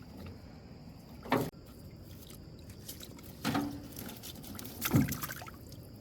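Water splashing and dripping three times, about a second and a half apart, over a low steady background; the last splash is the loudest.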